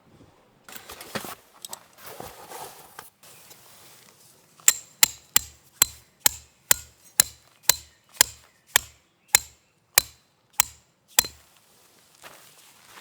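Hammer blows, about fifteen at a steady pace of a little over two a second, each a sharp strike with a low thud and a bright ring, starting about a third of the way in. Before them, some irregular rustling and clattering.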